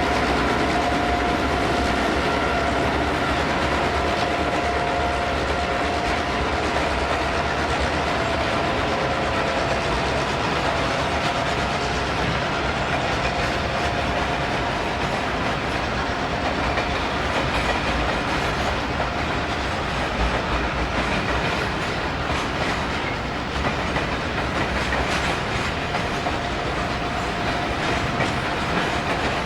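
A diesel-hauled freight train rolling past, wagon wheels clattering over the rail joints, with a steady whine above the rumble throughout.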